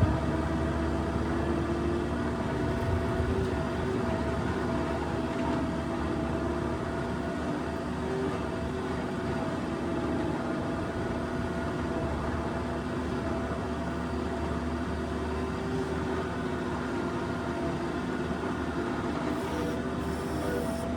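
New Holland skid steer's diesel engine running steadily, with a constant hum and whine.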